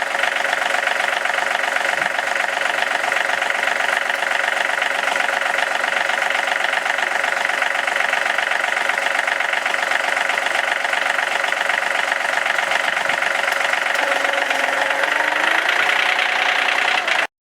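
Gas engine of a portable bandsaw sawmill running steadily under load as the band blade cuts through a black walnut log. A lower tone comes in during the last few seconds.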